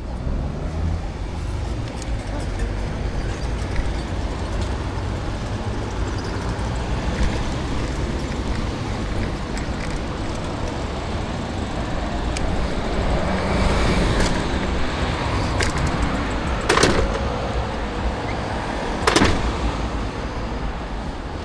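City street ambience heard from a moving bicycle: a steady low rumble of traffic and road noise. Two sharp knocks about two seconds apart come near the end.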